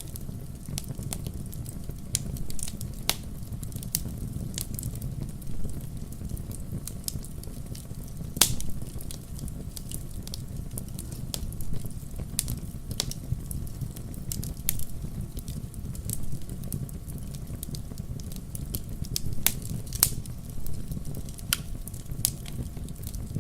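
Firewood burning in a fireplace, crackling: sharp pops and snaps at irregular intervals over a low, steady rumble. One pop about eight seconds in is louder than the rest.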